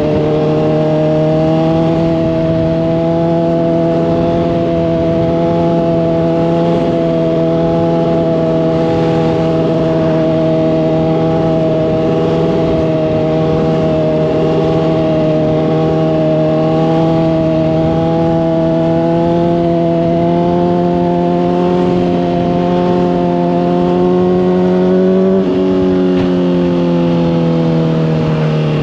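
Honda CBR600RR's inline-four engine through a slip-on exhaust, running at steady revs under way for most of the stretch. Near the end the revs fall away gradually.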